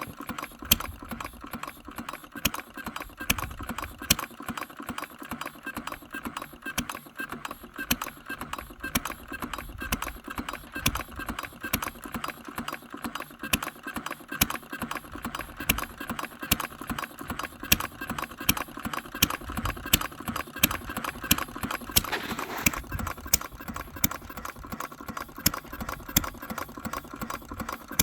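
Small single-cylinder engine built after Henry Ford's 1893 design running steadily, with an even, rapid clatter of sharp clicks from its firing and valve gear, its ignition timing newly adjusted.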